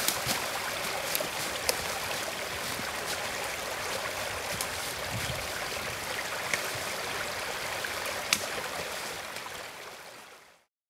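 Steady rush of a flowing stream, with a few faint sharp clicks over it, fading out near the end.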